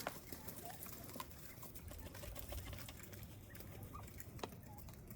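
Northern bobwhite quail giving a few soft, short calls, with faint clicks of pecking as they eat mealworms.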